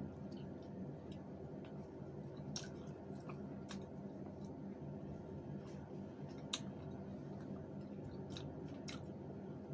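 Close-up eating sounds: soft chewing and wet mouth sounds with a few sharp lip smacks, over a steady low background hum.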